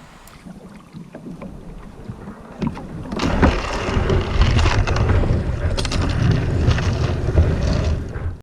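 Wind buffeting the microphone over rough water on a lakeshore. It gets much louder about three seconds in, with a few scattered knocks, and cuts off abruptly at the end.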